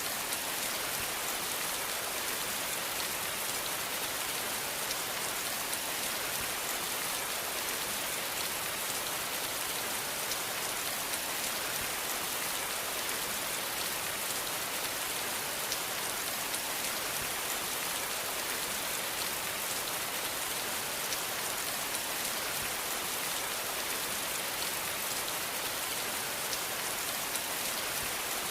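Steady rain falling, a continuous hiss dotted with fine drop patter, with no thunder.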